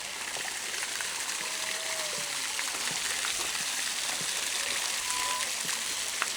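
Steady rushing hiss of flowing water, with a few faint short tones over it.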